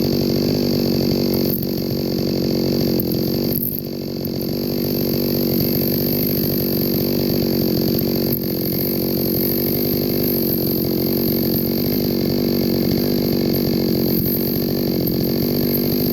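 Chainsaw running steadily under load while cutting through a log, its pitch dipping briefly twice in the first few seconds.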